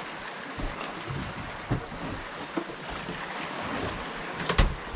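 Small boat on the water: a steady rush of wind and water with scattered light knocks against the hull, and a louder thump near the end.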